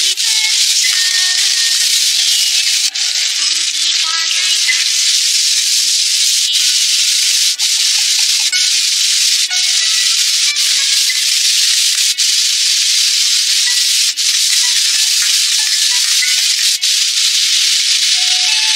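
Diced-meat fried sauce sizzling steadily in a hot wok as soy sauce, oyster sauce and seasonings cook into it. The hiss is broken by brief dips every few seconds.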